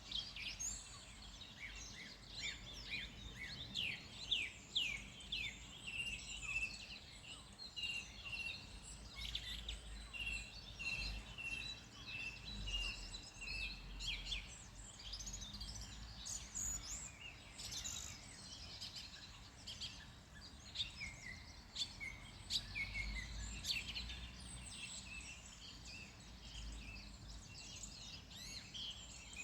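Several wild songbirds singing and chirping, with many short quick chirps and whistles and, partway through, one bird repeating a steady series of even notes, over a low constant background rumble.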